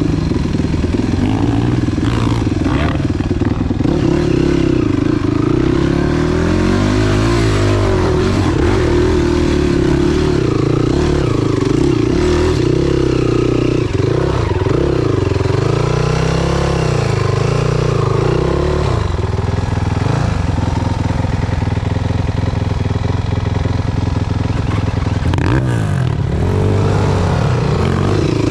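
Enduro motorcycle engine running under load off-road, its pitch rising and falling as the throttle opens and closes, through wind on the microphone. About two-thirds of the way in, the revving settles to a lower, steadier note.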